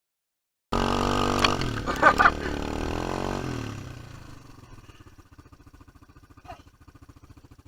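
Jaeger 200 quad bike's engine starting abruptly under a second in at high revs, with a few short sharp sounds about one and a half to two and a half seconds in. Around three seconds in the pitch falls and the engine settles to a quieter, even idle.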